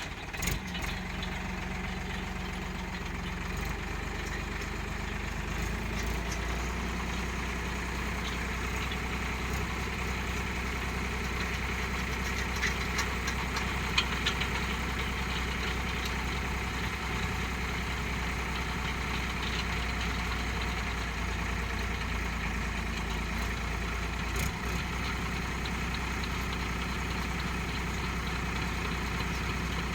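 Tractor diesel engine running steadily, driving a PTO-shaft post hole digger; the low engine note gets louder about six seconds in and then holds steady.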